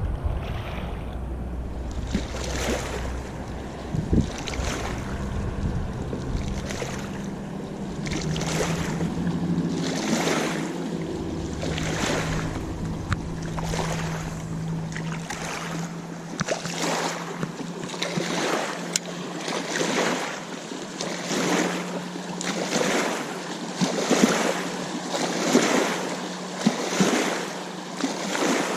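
Small waves lapping in a steady rhythm at the lake's edge, with the drone of a motorboat engine out on the water from about eight seconds in.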